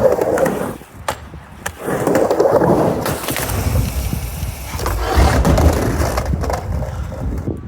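Skateboard wheels rolling back and forth across a mini ramp, the rolling noise swelling and fading with each pass, with a couple of sharp clacks about a second in.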